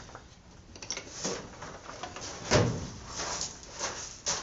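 Knocks and clatter of hand tools and metal parts being handled, a few separate strokes with the loudest about two and a half seconds in.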